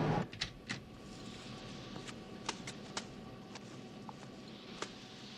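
Faint steady background with a few scattered light clicks and knocks.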